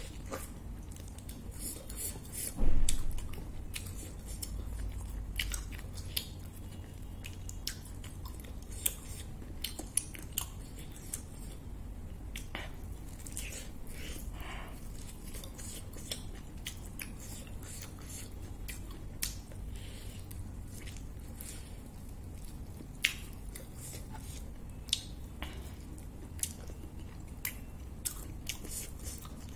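Close-up chewing and biting as pork on the bone is gnawed, with many short wet mouth clicks and smacks, and one louder knock a little under 3 s in.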